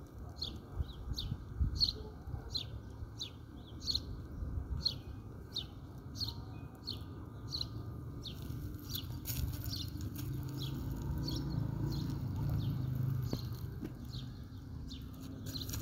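A bird chirping over and over, short falling chirps at an even pace of about two a second, over a steady low rumble.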